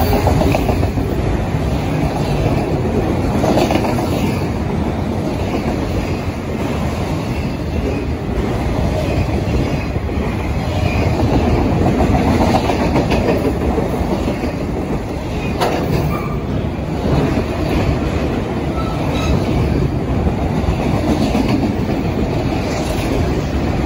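Freight train of autorack cars rolling past close by: a loud, steady rumble and clatter of steel wheels on the rails, with a sharp clank about two-thirds of the way through.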